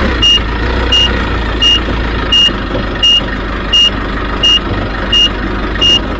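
Forklift reversing alarm beeping evenly, about once every 0.7 seconds, over the steady low rumble of the running vehicle. The sound cuts off suddenly at the end.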